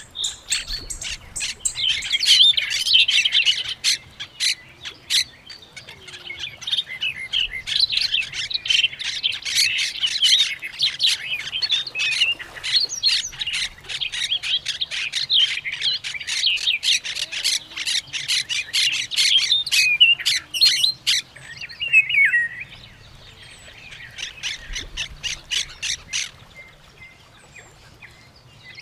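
Parrots and other birds calling: a dense chorus of sharp squawks and quick chirps that thins out into a quieter stretch near the end.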